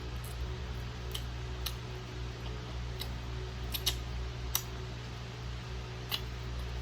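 Chewing and lip-smacking while eating chicken wings: scattered short, sharp mouth clicks, a few per second at most, over a steady low hum.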